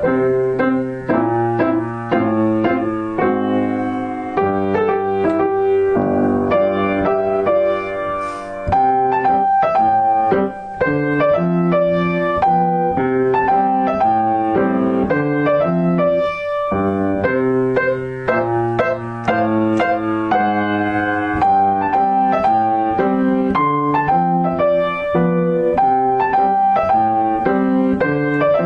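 Piano music: a melody over chords, played continuously at an even level.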